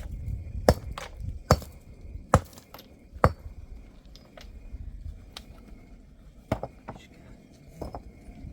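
A series of sharp knocks or chopping strikes: four hard blows a little under a second apart, then after a pause a few lighter ones, over a low rumble.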